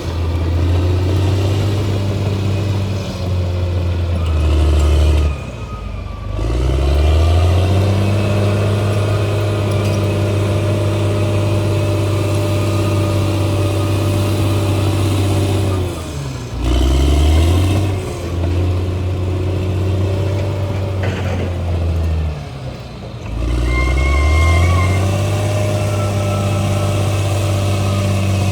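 Bulldozer's diesel engine running hard, its pitch sagging and then climbing back up three times.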